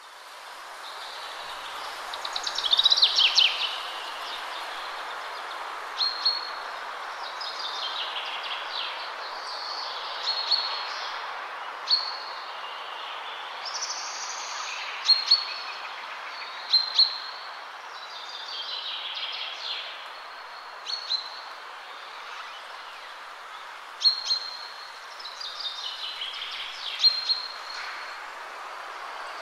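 Birds singing over a steady background hiss, like a nature ambience track: repeated short, sharp chirps and falling trilled phrases every second or two.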